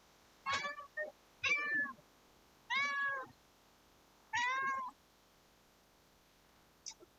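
Domestic cat meowing repeatedly: four meows roughly a second apart in the first five seconds, with a short chirp after the first.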